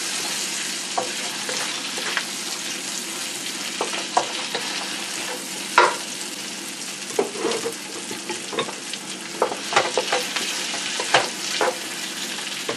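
Sliced bell peppers and onion sizzling in oil in a hot metal wok, with a steady hiss. A wooden spatula stirring them knocks and scrapes against the pan now and then, loudest about six seconds in.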